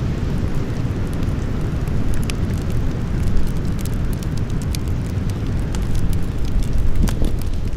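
Campfire burning, with scattered sharp crackles and pops from the burning wood over a steady low rumble; one of the louder pops comes about seven seconds in.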